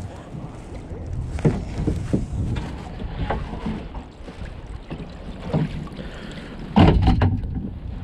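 Scattered knocks and splashes around a kayak, with wind noise on the microphone; the loudest clatter comes about seven seconds in.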